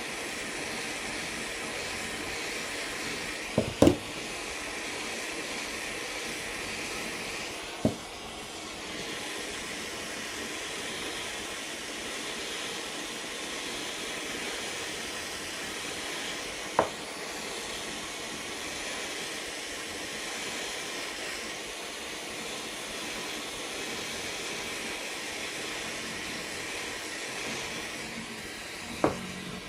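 A steady rushing hiss with a few single sharp knocks: a close pair about four seconds in, then one each at about eight seconds, seventeen seconds and just before the end.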